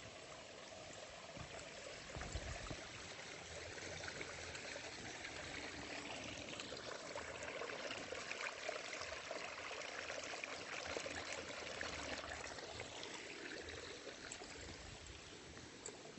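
Running water of a stream, a steady rushing that grows louder through the middle and then eases off.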